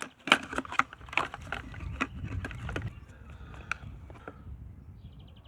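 Clicks and taps of a new spin-on oil filter and its packaging being handled, with a quick run of sharp knocks in the first three seconds that thins out after.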